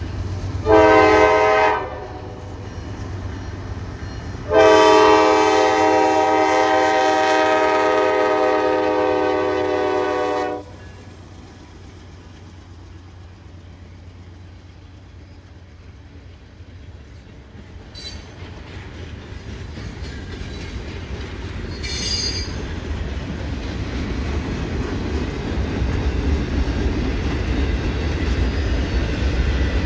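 Diesel freight locomotive's air horn sounding a chord of several notes: one short blast, then a long one of about six seconds. After the horn, the low rumble of the approaching train builds steadily.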